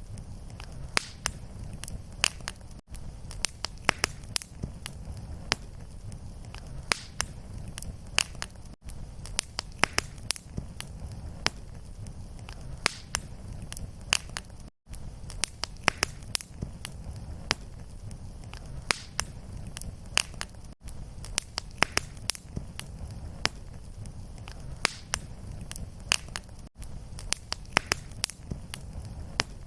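Fireplace fire crackling: many sharp, irregular pops and snaps over a steady low rumble. The sound drops out briefly about every six seconds.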